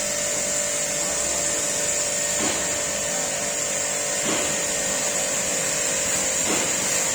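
Pressure washer running steadily: the even hum of its pump under the hiss of the water jet, washing down an electric motorcycle.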